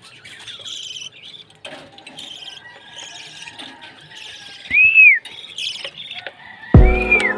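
Lovebirds chattering in high chirps, with two louder rising-and-falling calls, about five seconds in and near the end. Music starts near the end.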